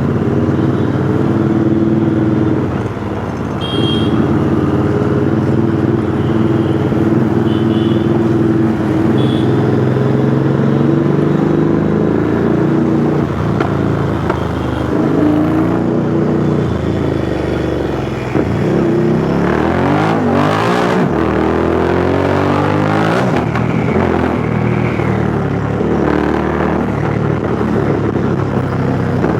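Royal Enfield Interceptor 650 parallel-twin engine running through a custom two-into-one exhaust while riding, the exhaust note rising and falling with the throttle, with a run of quick rises and drops in pitch about twenty seconds in.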